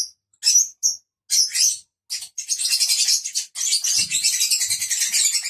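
Lovebirds chirping: a few short, sharp high chirps, then from about two seconds in a rapid, unbroken chatter of high chirps.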